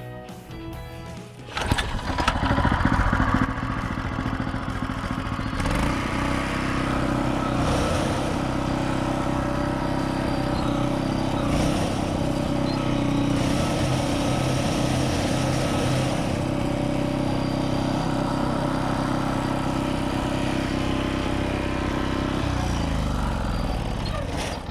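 Small engine of a Takakita SE511 walk-behind mini roll baler starting up about a second and a half in and running steadily. Near the end it winds down in pitch and stops.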